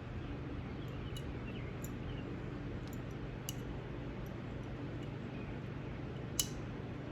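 Small metal clicks as synchro springs and keys are handled and fitted into a Ford toploader synchro hub, a few light ticks and one sharper click about six seconds in, over a steady low hum.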